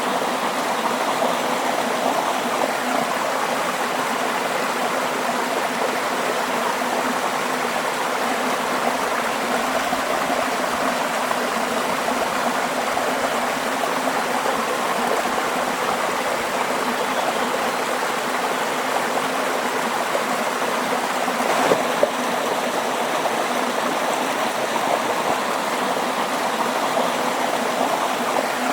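A stream of running water, flowing steadily and evenly. A single brief knock stands out about three-quarters of the way through.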